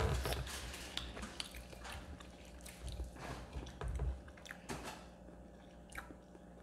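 Close-up chewing and biting of crispy fried chicken, with irregular crunches and crackles of the breaded skin.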